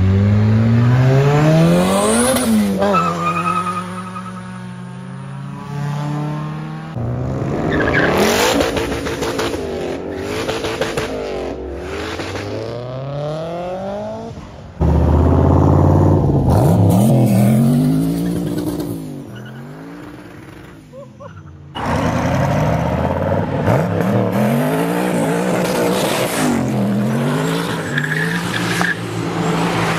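Modified Japanese performance car engines revving and accelerating hard, pitch climbing and falling back again and again at shifts and throttle blips. The sound switches abruptly to a different car about every seven seconds.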